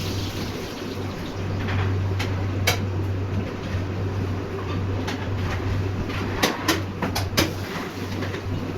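Steady low hum of running production machinery, with scattered sharp metal clanks and knocks that bunch together about two-thirds of the way through.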